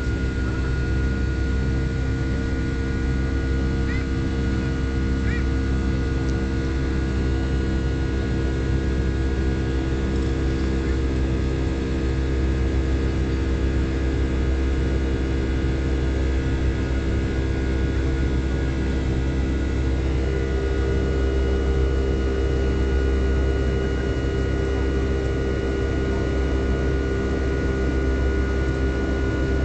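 Steady cabin drone of a Boeing 757 in flight, engine and airflow rumble with a few steady tones over it. The tones shift slightly about twenty seconds in.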